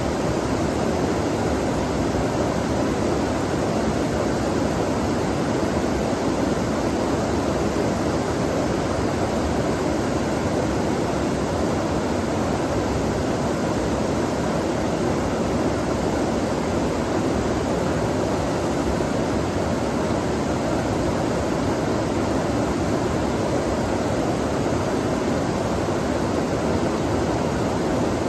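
Flowing water rushing steadily in one unbroken, even roar.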